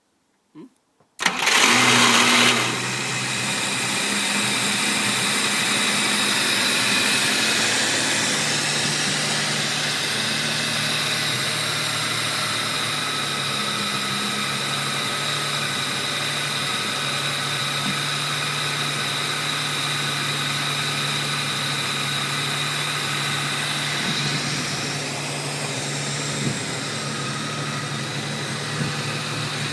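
Unimog 404's Mercedes M180 straight-six petrol engine starting about a second in, with a brief loud burst as it catches, then running steadily.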